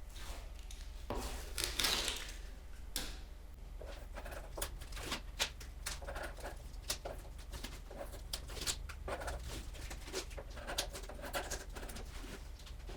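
Workshop hand-work sounds: irregular scraping swishes and small clicks and taps, with a longer scrape about two seconds in, over a steady low hum.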